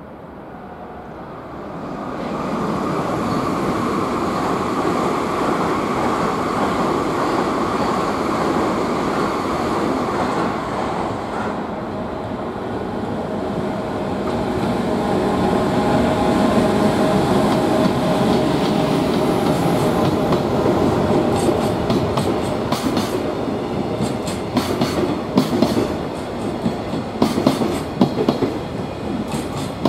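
An EF510 electric locomotive hauling a container freight train, getting louder over the first couple of seconds as it comes up and passes with a steady rumble. From about twenty seconds in, the container wagons go by with a rapid, uneven clatter of wheels clicking over rail joints.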